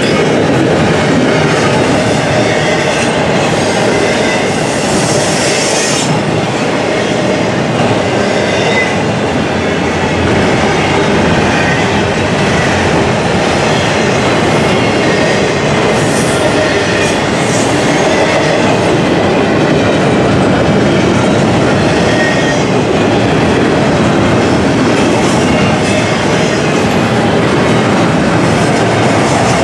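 Intermodal freight train rolling past close by: a loud, steady noise of steel wheels on rail with clickety-clack from the passing cars.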